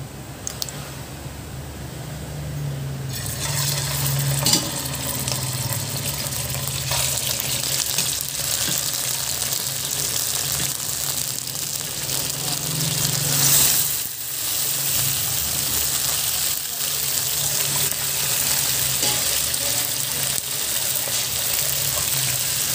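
Braised chicken adobo pieces frying in a pan of hot oil: the adobo's final fry to thicken it. The sizzling starts about three seconds in as the pieces go in, then runs on as a steady hiss with a sharp crackle about four seconds in and a louder swell near thirteen seconds, over a steady low hum.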